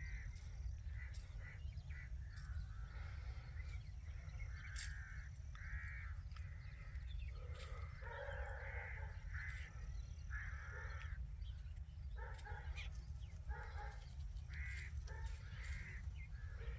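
Indian ringneck parakeets giving many short, harsh squawking calls in irregular succession, over a steady low hum.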